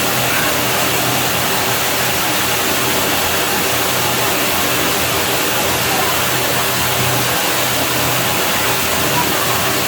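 Steady rushing of water at a pool villa's pool, an even, unbroken noise with a faint low hum underneath.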